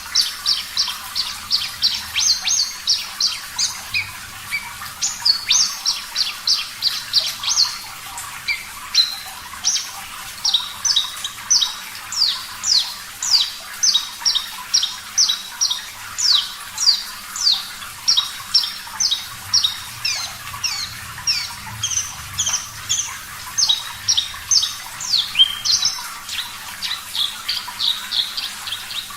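Horsfield's bush lark (branjangan, Mirafra javanica parva) singing a long, unbroken song of short, high, sharp notes, several a second, many of them quick falling sweeps, over a faint background of running water.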